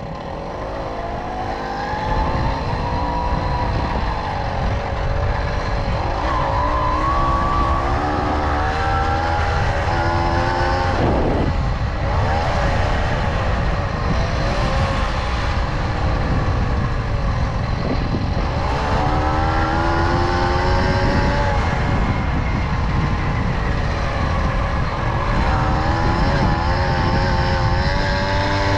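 Tomos moped's small two-stroke engine running under way, its pitch rising and falling several times as the throttle opens and closes, with heavy wind rumble on the microphone.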